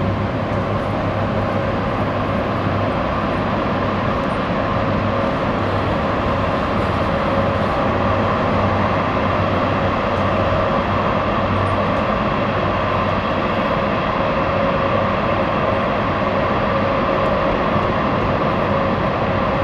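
Twin jet engines of a Boeing 767-300ER running steadily as the airliner taxis out, an even, unbroken engine noise with a low hum and a few steady higher tones.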